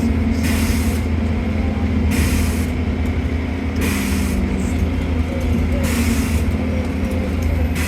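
Bus running, heard from inside: a steady low engine drone, with a short hiss about every one and a half to two seconds.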